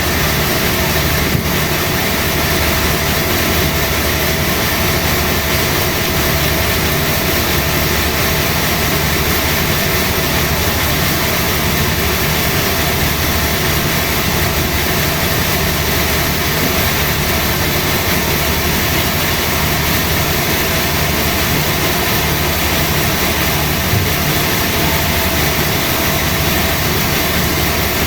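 Sawmill machinery running steadily, a loud unbroken mechanical noise with a constant hum.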